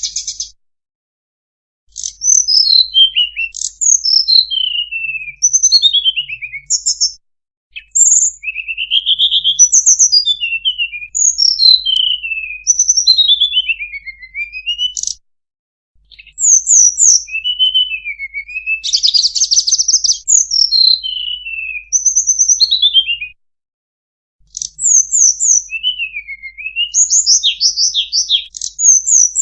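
Recorded song of a tledekan (blue flycatcher) played as a bird-trapping lure: rapid, high whistled phrases and descending trills, repeated in runs of several seconds with brief silent gaps between them.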